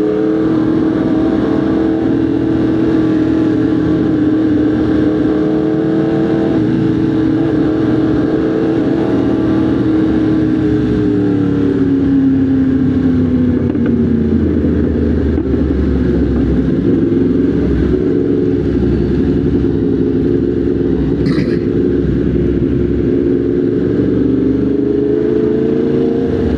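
Motorcycle engine running at steady cruising revs, easing off in pitch about halfway through and then building again.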